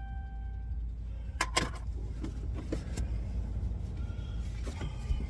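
Steady low rumble of a truck engine idling, heard from inside the cab. A warning-chime tone stops under a second in, and a couple of sharp clicks follow about a second and a half in.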